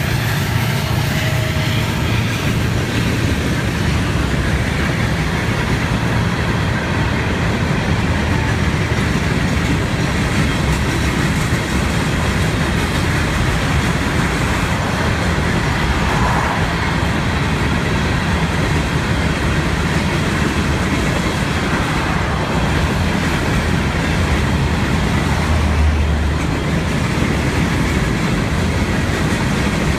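Long Florida East Coast freight train of empty cars rolling steadily past a road crossing, a continuous rumble with wheel clatter.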